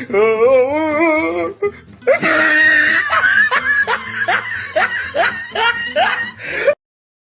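Laughing sound effect: after a short wavering, wobbling wail, a long run of rapid laughs, each note falling in pitch, which cuts off suddenly into silence.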